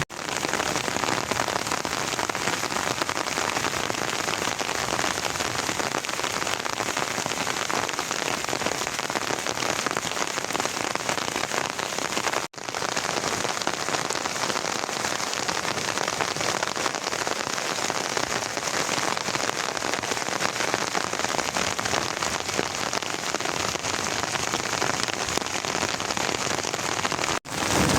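Steady rain falling, an even hiss of drops that cuts out for an instant twice, about twelve seconds in and near the end.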